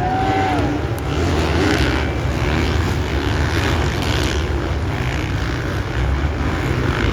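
Supercross dirt bike engines running at race pace, a continuous blended engine noise with a brief falling rev at the start.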